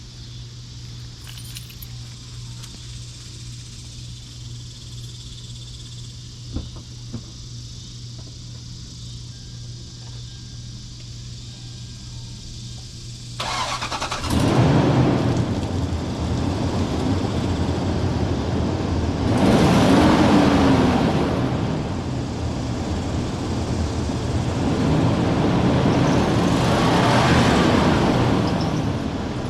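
Toyota 4.7-litre V8 (2UZ-FE) of a 2003 Sequoia starting about halfway through on its stock exhaust. It is then revved three times, each rev rising and falling in pitch. A steady low hum comes before it. The owner says it sounds clogged, which he puts down to blocked catalytic converters.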